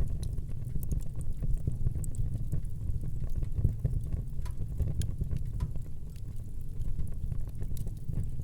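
Wood fire burning in a fireplace: a steady low rumble of flames with frequent small, irregular crackles and pops from the burning wood.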